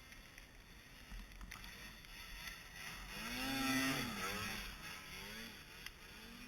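A person's long, drawn-out vocal call about three seconds in, its pitch gliding and then falling, followed by two shorter calls, over a steady hiss that swells in the middle.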